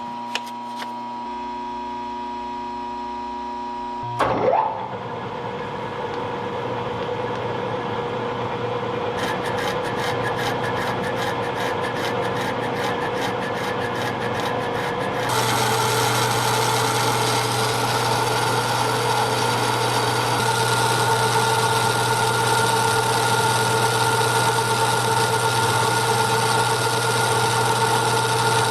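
Electric shop power tool running steadily on metal work, with a sharp knock about four seconds in. Fast fine ticking joins for several seconds, then the machine runs louder and steady until near the end.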